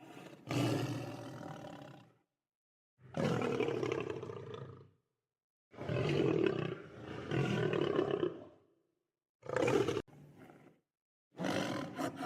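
Lion roaring: about five separate deep roars, each one to three seconds long, with short silent gaps between them.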